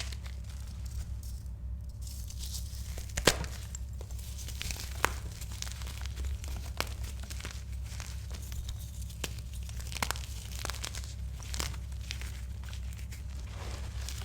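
Reformed gym chalk being crushed, with scattered crisp cracks and crumbles, the sharpest about three seconds in, over a steady low hum.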